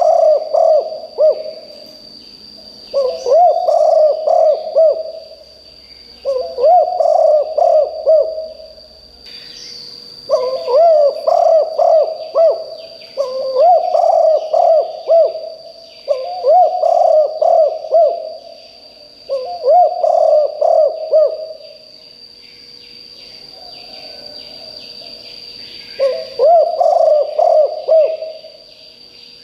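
Spotted dove singing, about nine cooing phrases of several quick notes each, one every few seconds, with a pause of about five seconds near the end. A steady high whine and faint chirps of other birds sound underneath.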